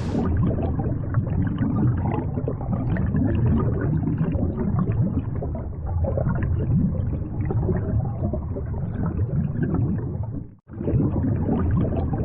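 Mountain stream water rushing and splashing, heard muffled and dull. The sound breaks off for an instant about ten and a half seconds in, then carries on.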